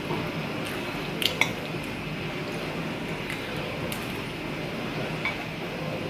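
Wet chewing and mouth sounds of someone eating, with a few light clicks of a fork against a plate about a second in.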